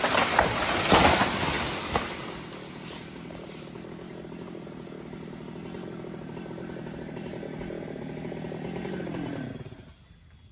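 Stihl two-stroke chainsaw, loud at first with several sharp cracks in the first two seconds, then running at a steady lower speed for several seconds before the engine cuts off suddenly near the end.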